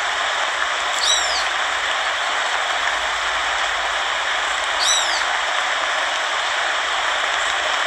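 Steady heavy rain. A short, high, falling animal call comes through it twice, about four seconds apart.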